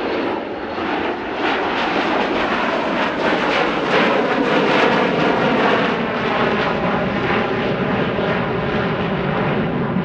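Jet noise from a Boeing 727-200's three tail-mounted engines as the airliner flies past, growing louder about a second and a half in and staying loud.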